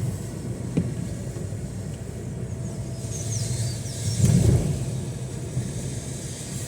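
Heavy rain with a steady low rumble, which swells briefly about four seconds in.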